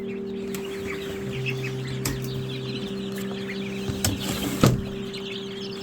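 A flock of chickens clucking and chirping, with a steady hum underneath and a few sharp knocks.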